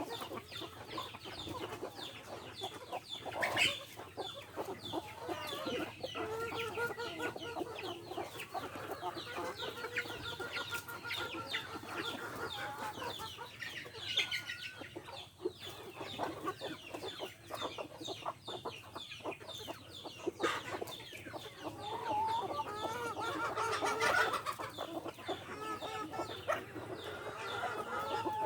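A flock of free-range chickens, including Rhode Island Reds and native breeds, clucking and calling continuously. A few longer, drawn-out calls stand out among the short clucks.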